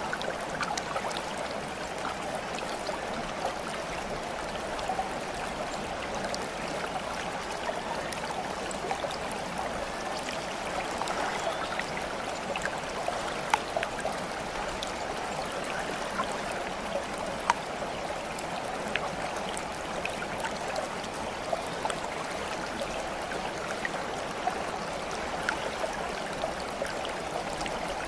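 Steady running water, flowing and trickling evenly, with scattered small droplet-like ticks and splashes throughout.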